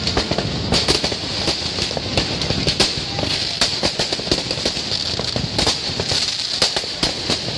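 Fireworks and firecrackers going off in quick succession: a dense, continuous run of overlapping bangs and crackles with no let-up.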